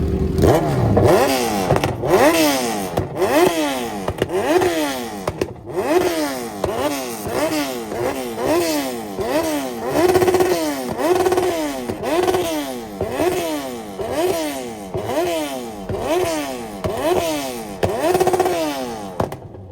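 Engine revved hard over and over, its pitch shooting up and dropping back about every two-thirds of a second, a few revs briefly held at the top; the sound cuts off suddenly near the end.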